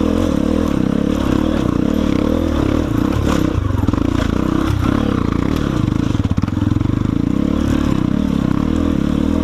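Single-cylinder enduro motorcycle engine running steadily under throttle on a trail ride, with some clatter. The engine note eases briefly about six seconds in, then picks up again.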